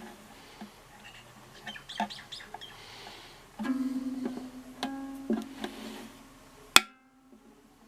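A soprano ukulele string plucked about twice, ringing on one steady low note, amid small clicks and squeaks of handling the instrument; a single loud sharp click comes near the end.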